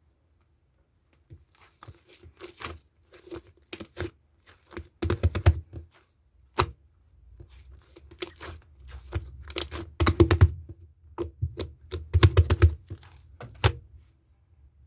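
Slime being squished and stretched by hand, making irregular clusters of sharp crackling pops and clicks. The crackling starts about a second in.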